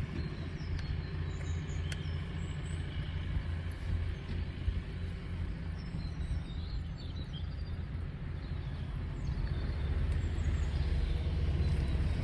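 Steady low outdoor rumble, growing a little louder near the end, with a few faint bird chirps high above it.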